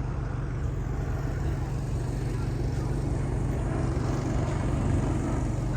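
A steady low mechanical hum, like a motor or engine running without let-up.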